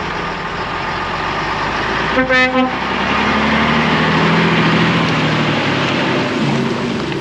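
A lorry's horn blasts once for about half a second over the steady noise of trucks driving past, then a heavy diesel truck engine grows louder as a lorry passes close by.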